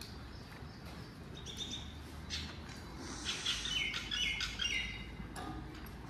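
Small birds chirping, with a quick run of short falling notes about halfway through, over a low steady background rumble.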